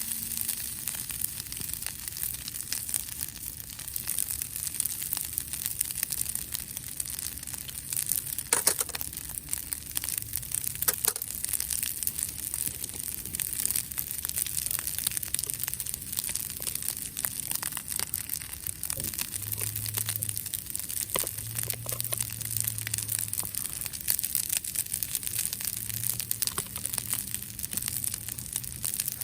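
Wood campfire crackling, with a steady run of small pops and snaps and a few louder pops.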